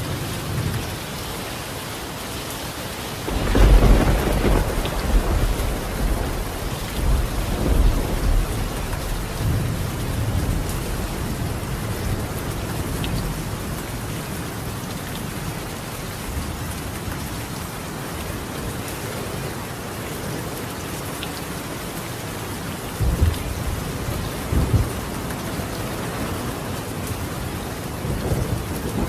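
Steady heavy rain on a roof, with a loud roll of thunder a few seconds in that rumbles on for several seconds, and a weaker rumble about three-quarters of the way through.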